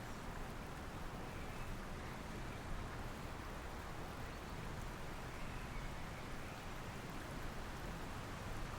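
Steady rain falling, mixed with a flowing river: a continuous, even hiss with a strong low rumble underneath.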